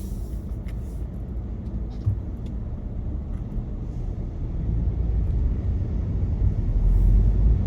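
Car cabin noise while driving: a steady low road and engine rumble that grows louder in the second half, with a few faint ticks early on.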